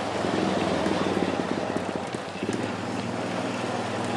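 A small motor vehicle's engine running steadily close by, with a fast rattle in the first couple of seconds and some wind on the microphone.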